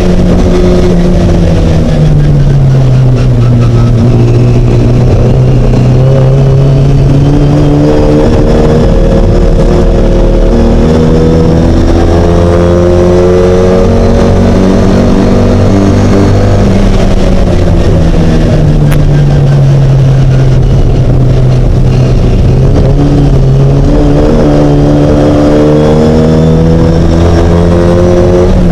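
Racing Mini's engine at speed, loud and unbroken, its pitch falling, then rising and falling again over several seconds at a time as the car accelerates and lifts for corners.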